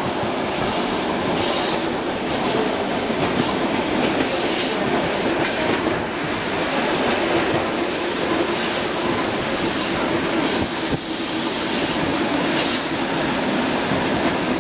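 ER2R electric multiple unit running, heard from inside a carriage: a steady rumble and hiss of the wheels on the rails, with occasional clicks.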